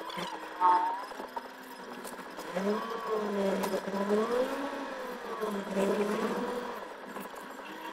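Car engine running as the car drives along, its pitch rising and falling several times. A short, higher-pitched sound stands out about half a second in.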